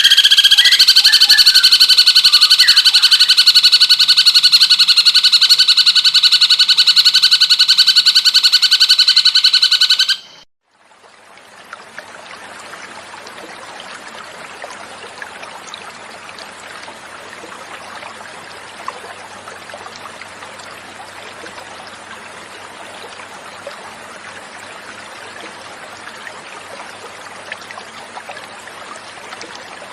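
Cucak cungkok song: a loud, rapid trill held at a steady pitch for about ten seconds, then cut off. After a short gap it gives way to a quieter, steady sound of gently flowing water.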